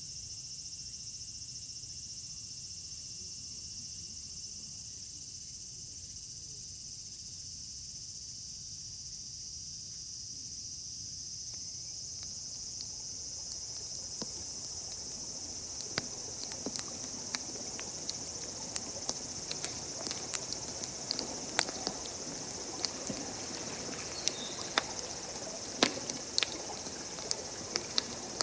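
Steady chorus of crickets or other insects. From about halfway in, a wood campfire starts crackling, with sharp irregular pops that grow more frequent toward the end.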